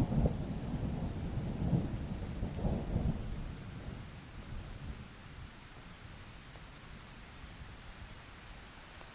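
Thunderstorm: a low rolling thunder rumble with rain, swelling a few times and then dying away about four seconds in, leaving a faint steady hiss.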